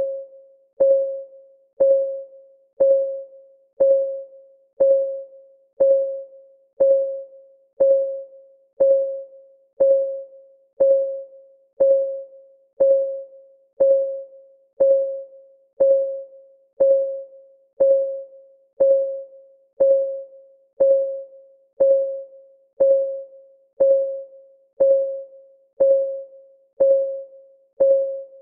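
Clock-ticking sound effect of a countdown timer: a steady tick about once a second, each a short pitched tone that dies away quickly.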